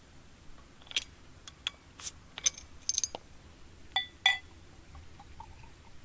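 Camp tableware being handled: a string of light clicks and taps, with two ringing clinks about four seconds in.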